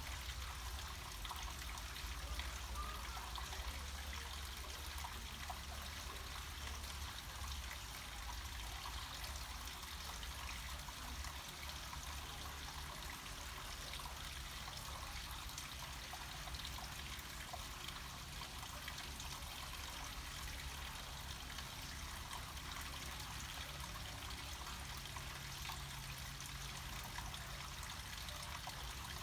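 Water flowing down a small mountain waterfall: a steady, unbroken trickling rush with a low rumble underneath.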